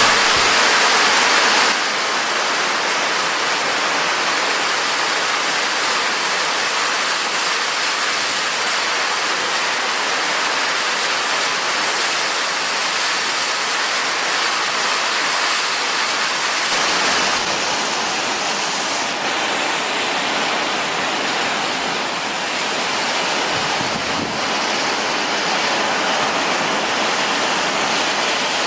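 Heavy summer-storm rain pouring down in a steady, loud hiss, a little louder for the first couple of seconds.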